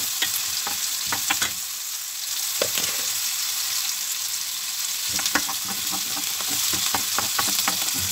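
Chopped garlic and onion sizzling in olive oil and butter in a stainless steel pan, sautéing toward golden brown. Irregular clicks of a spoon stirring against the pan sound over the steady hiss.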